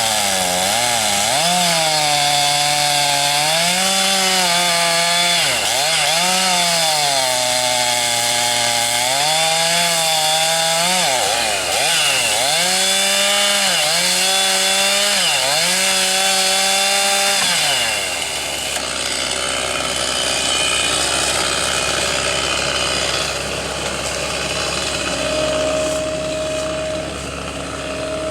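Chainsaw running at high revs, its pitch dipping and rising again and again as it cuts through wood. It cuts out about two-thirds of the way through, leaving a quieter, steady engine-like hum.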